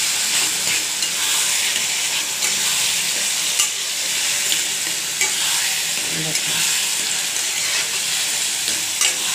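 Brinjal and bitter gourd bharta sizzling in hot oil in a kadai while a spatula stirs and scrapes it around the pan. There is a steady frying hiss, broken by a few sharp clicks of the spatula against the pan.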